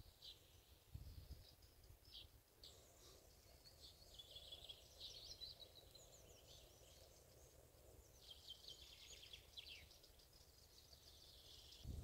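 Faint, high-pitched bird calls: thin, rapid trills and ticking series, several overlapping and coming and going.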